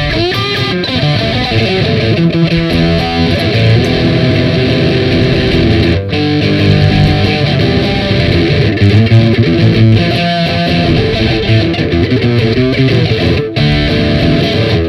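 Instrumental break in a song: an electric guitar plays a run of changing notes through distortion and effects.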